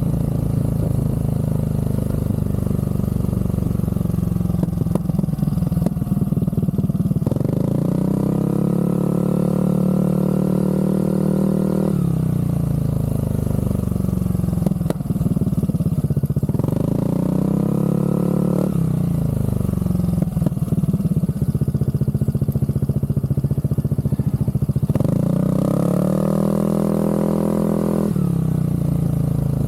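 Aprilia SR GT scooter's single-cylinder engine running through a Zard aftermarket exhaust, idling and revved up three times, each rev held for a couple of seconds before dropping back to idle.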